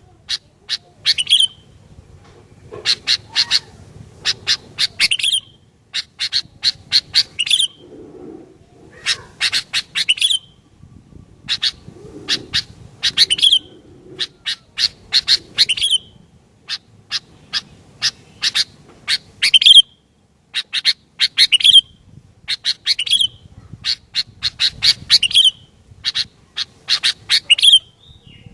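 Sooty-headed bulbul (kutilang) calling: bursts of rapid, chattering notes, many ending in a louder note, repeated every second or two.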